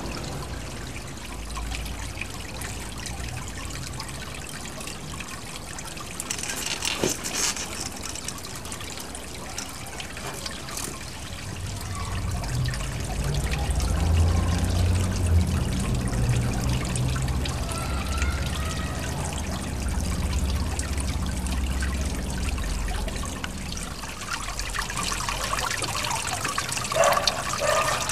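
Water trickling and splashing steadily from a small garden pond waterfall, with a low rumble through the middle stretch and a brief knock about seven seconds in.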